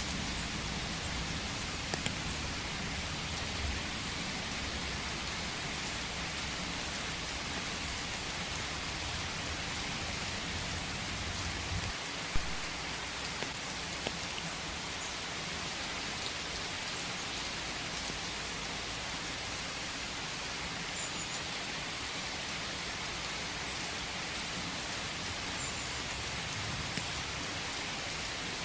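Steady rain falling in a forest, an even hiss of drops on leaves and ground, with a low rumble underneath that fades out about twelve seconds in. A few single drops tick sharply, the loudest near the middle.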